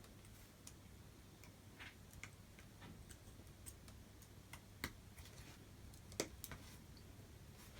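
Near silence with a faint low hum, broken by scattered small clicks and taps as the phone and display parts are handled on the bench, the sharpest about five and six seconds in.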